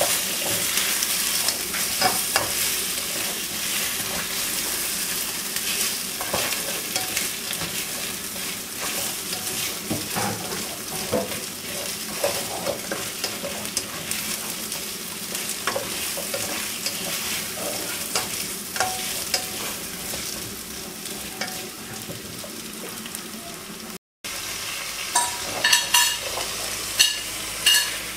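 Chicken wings frying and sizzling in a hot pan as a utensil stirs and scrapes through them. After a short break in the sound near the end, a few sharp clinks of the utensil against the pan.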